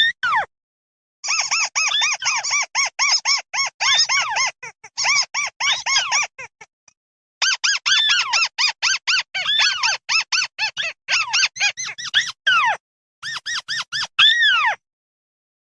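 Flock call of the bird known in Vietnam as 'mắt xéo': rapid runs of short, squeaky, down-slurred notes, about five a second, in long bouts with brief pauses between them.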